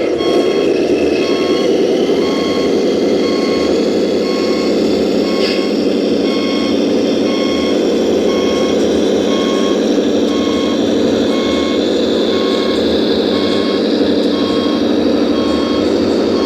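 1:14-scale RC truck or construction machine with its engine sound running steadily and a reversing beeper sounding about twice a second, starting a little over a second in.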